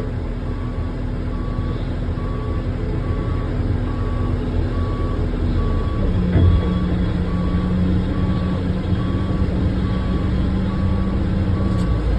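Pushback tug's reversing alarm beeping at an even pace, a little faster than once a second, over a steady low engine drone whose hum drops in pitch about six seconds in.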